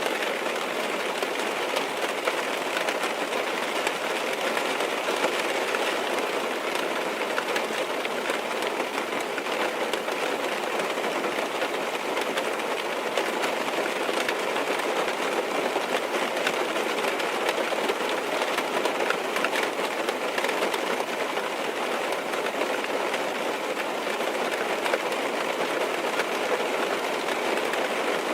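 Rain falling steadily on a car's roof and windows, heard from inside the car: a dense, even spatter of many small drops that keeps up without a break.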